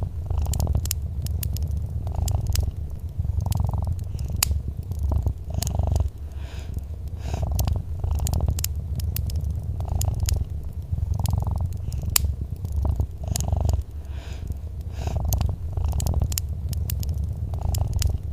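A cat purring close up, a low rumble that swells and eases with each breath, about every second or two. Sharp crackles and pops of a fireplace fire sound throughout.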